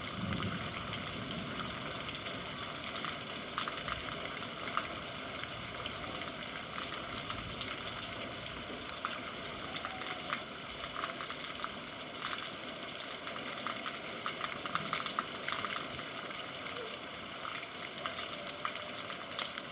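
Steady rain: an even hiss with a dense crackle of drops striking hard surfaces.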